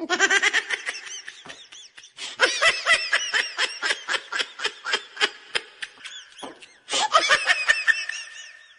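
High-pitched laughter in rapid bursts, about five a second, with a brief pause about six and a half seconds in.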